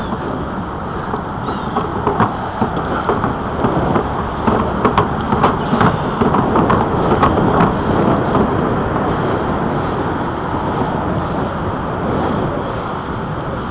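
Riding a bicycle along a trail: steady wind and rolling noise on the microphone, with scattered clicks and rattles in the middle stretch.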